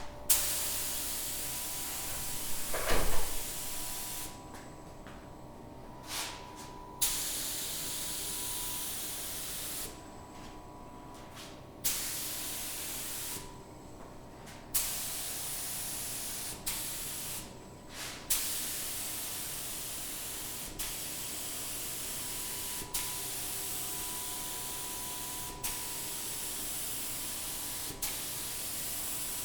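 Spray gun hissing as finish is sprayed in repeated passes, starting and stopping every few seconds, with a short click at each pause. There is a single low thump about three seconds in.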